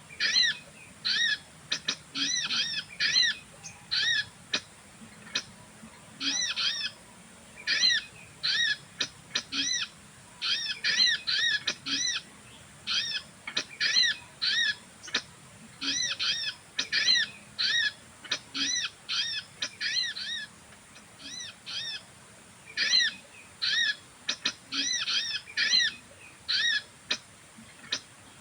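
A bird calling over and over: short, arched, chirping notes in quick runs of two to five, with brief pauses between runs.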